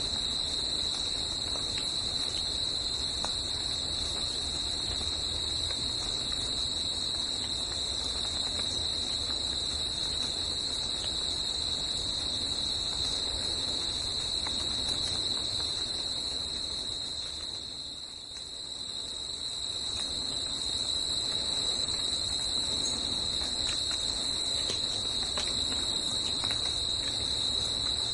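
Steady insect chorus, a constant high-pitched trilling that fades briefly about two-thirds of the way through and comes back.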